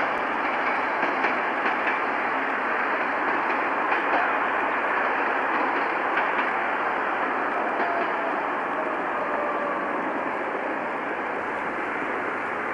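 A train running on the track: a steady rumble of wheels on rails with a few faint clicks.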